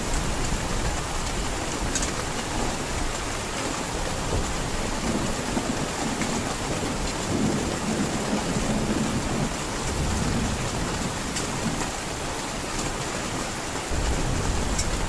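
Heavy rain falling steadily, with thunder rumbling low through the middle of the stretch.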